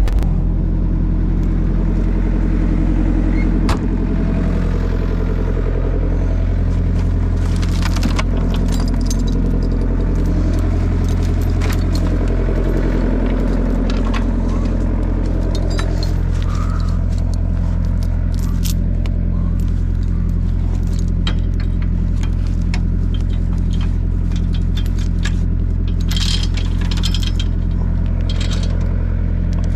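An engine running steadily at a constant speed, with scattered metallic clicks and clatter over it, busiest in the middle and near the end.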